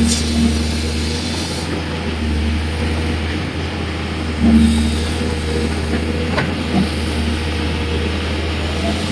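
Excavator's diesel engine running steadily with a deep hum. A higher hum swells briefly twice, at the start and about four and a half seconds in, and there is a short sharp sound a little later.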